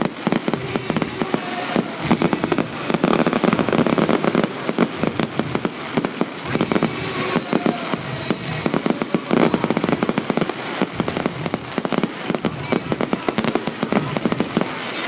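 Fireworks display going off without pause: a dense barrage of rapid bangs and crackles, many overlapping each second.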